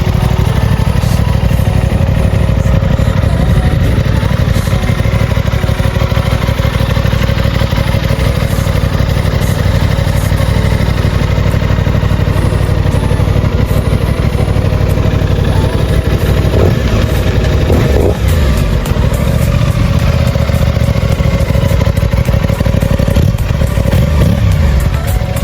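Aprilia Tuono 660 Factory's 659 cc parallel-twin engine running steadily at idle, with a few short pitch rises from light throttle around two-thirds of the way in and again near the end.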